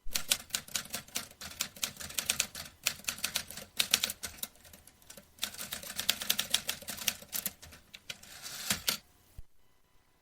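Vintage manual typewriter being typed on: a fast, uneven run of key strikes that starts abruptly, keeps going for about nine seconds, ends with a short rasp and a last knock, then stops.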